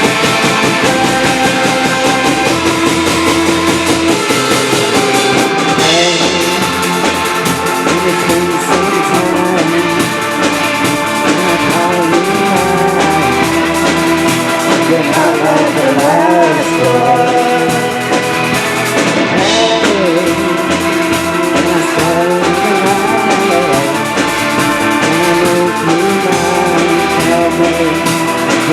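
Rock band playing a song with drum kit and pitched instruments, loud and steady, a stretch without transcribed sung words.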